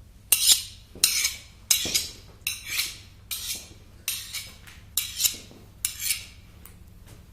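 A metal knife blade scraped in about nine quick strokes, roughly one a second, like a knife being sharpened, each stroke a short bright rasp.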